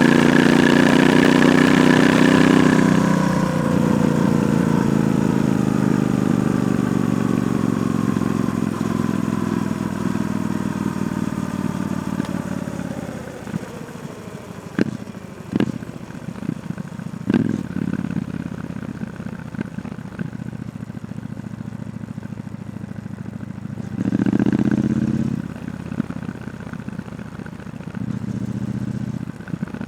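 Triumph Bonneville T120's 1200 cc parallel twin through its stock exhaust. It pulls hard at first, then its revs fall steadily over about ten seconds as it slows. It settles to idle with a few sharp clacks, and is blipped briefly twice near the end.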